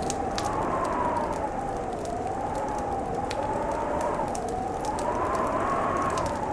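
Fireplace crackling with scattered sharp pops, over a steady low rumble and a wind-like whistle that slowly rises and falls in pitch, as in a blizzard howling.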